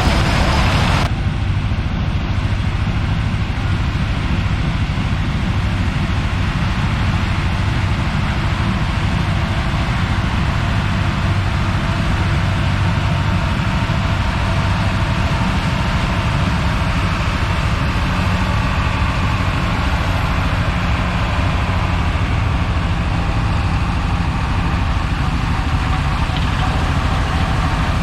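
Heavy diesel farm machinery engine running steadily, with a rushing noise that cuts off suddenly about a second in.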